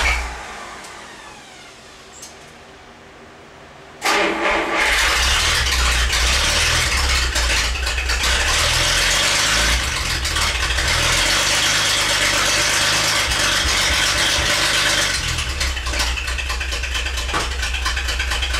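1950 Dodge Wayfarer's freshly rebuilt flathead straight-six being started. A first brief try stops right at the start. About four seconds in it is cranked again and catches, then runs, revving up and down unevenly for several seconds before running more steadily near the end.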